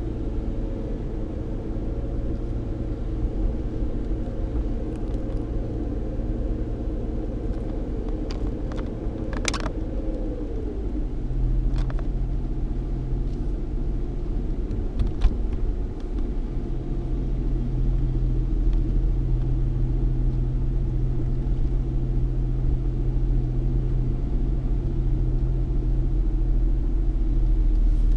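Inside the cabin of a 3.8-litre V6 Ford Mustang on the move: steady low road rumble and engine hum, with a few light clicks. About ten seconds in the engine note drops, as on an automatic upshift, and the low rumble then grows louder.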